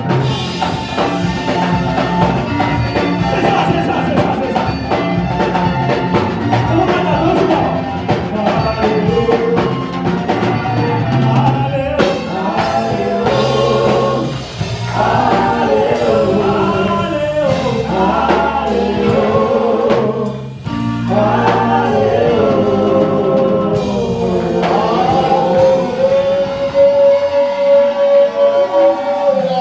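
Gospel worship singing with a backing band of bass, drums and keys, several voices together, closing on one long held sung note.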